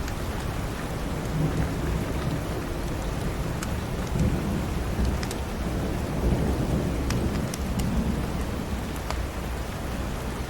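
Steady rain with a low rumble of thunder rolling through the middle, and scattered sharp crackles of a wood fire in a fireplace.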